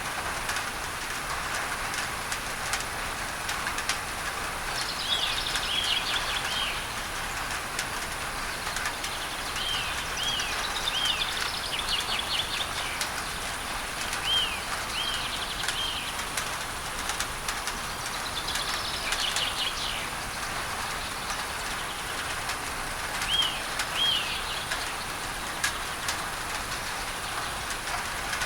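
Rain on a tin roof, a steady dense hiss with scattered sharp drip ticks, under an added masking noise. A bird chirps in short runs of arched notes, five times in all.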